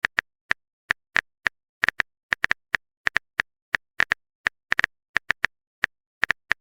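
Smartphone keyboard click sound effect typing out a message: a quick run of short, identical clicks at an uneven, typing-like pace with dead silence between them.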